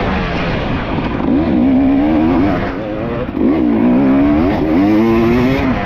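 Dirt bike engine revved hard in about three surges of throttle, its pitch climbing and dropping each time, with a brief dip about three seconds in.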